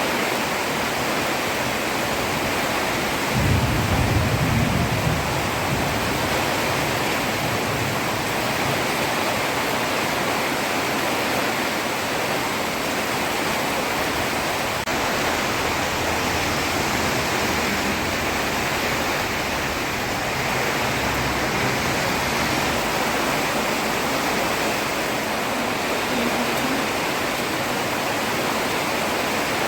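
Heavy rain falling on a road, a steady even hiss. A brief low rumble rises out of it about three seconds in and fades over a second or two.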